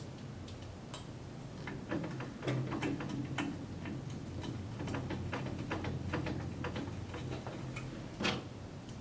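Screws being driven by hand with a Phillips screwdriver to fasten a small DC motor to a metal frame: a string of irregular small clicks and ticks, with one louder click near the end.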